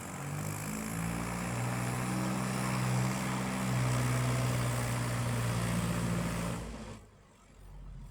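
Tractor engine running hard, its pitch shifting up and down a few times, then cutting off abruptly near the end.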